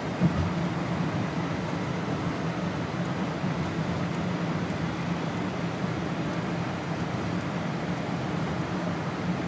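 Car driving: steady engine and road noise, with one short knock just after the start.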